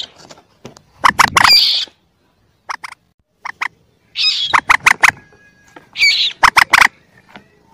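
Common moorhen chicks calling in short bursts of quick, sharp clucks with some higher squealing notes, from a bird-lure recording.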